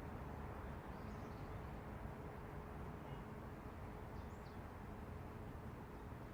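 Steady low city rumble of distant road traffic with a constant hum, and a few faint bird chirps about a second in and again around four seconds.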